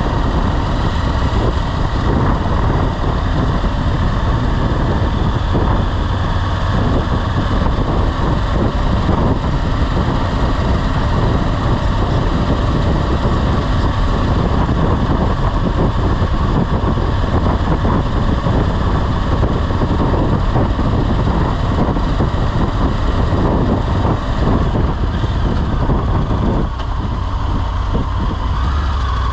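Motorcycle engine running under way, with steady rushing road and wind noise. About 27 seconds in the rush drops away, leaving a steadier low engine drone as the bike slows.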